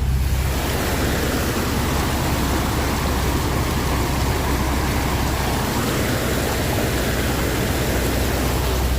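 Jeep fording deep floodwater at a slow, steady pace: a low engine hum under a constant rush of water and rain.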